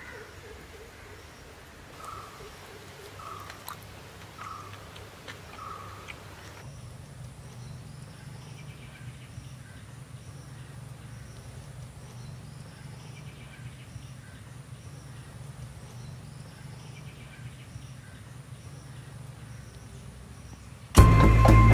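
Forest ambience with birds calling. A few seconds in, a bird gives four short calls about a second apart, then faint chirps repeat steadily over a low hum. Music starts abruptly near the end.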